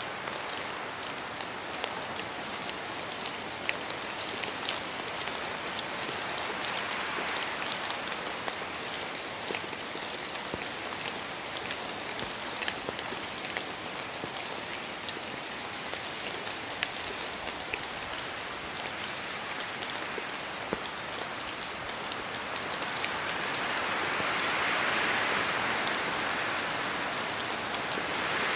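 Steady rain falling, with many scattered drops ticking through the hiss; it swells louder near the end.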